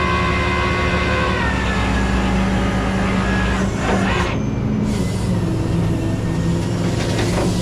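Tow truck engine running with a steady low hum, a whining tone in it dropping in pitch about a second and a half in, and short bursts of hiss around four seconds in and near the end.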